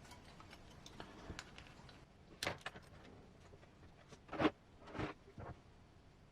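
Side cutters snipping small plastic lenses off their sprue: about four short, sharp clicks spread through the middle of the stretch.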